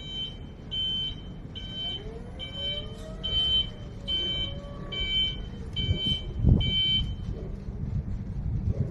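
Electric forklift's travel/reversing warning beeper: a string of nine evenly spaced high beeps, a little more than one a second, stopping about seven seconds in. Underneath is a low rumble, with a thud near the end of the beeping.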